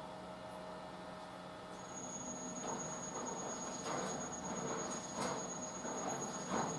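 Drum-type washing machine running, its motor giving a steady hum. About two seconds in, a high whine starts and the load begins swishing in a repeating rhythm as the drum turns it over.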